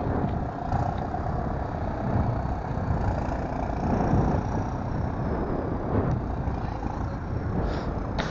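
Road traffic passing, with a steady low rumble of wind and road noise on the microphone of a moving bicycle.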